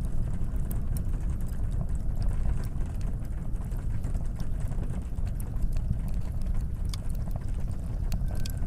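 Wood fire crackling in a wood stove: scattered sharp pops and snaps over a steady low rumble. Near the end a faint steady whistle begins as the tea kettle on the stove starts to come to the boil.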